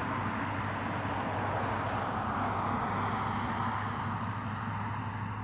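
A distant motor vehicle passing: a broad engine-and-tyre noise that swells gently to a peak about midway and then fades, over a steady low hum.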